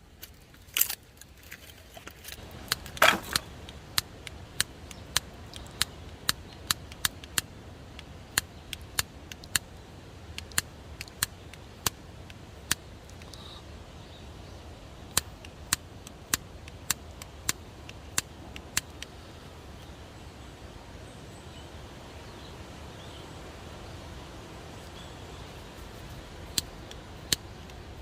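A series of sharp, short clicks, at times about two a second, over a steady low rumble, after a single louder knock about three seconds in. The clicks stop for several seconds in the second half and return near the end.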